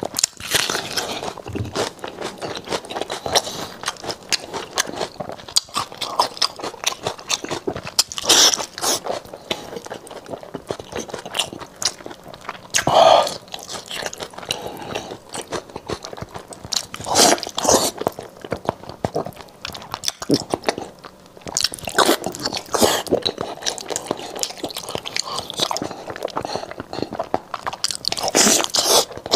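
Close-miked eating: a man biting and tearing meat off a large piece of sauced meat on the bone and chewing it, a dense run of wet mouth clicks with louder bites every few seconds.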